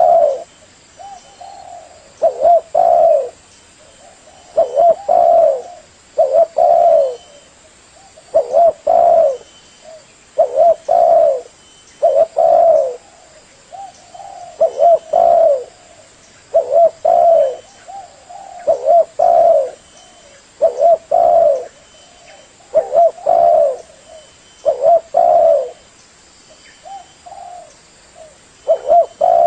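Spotted dove (terkukur) cooing: phrases of two or three low coos repeated about every two seconds.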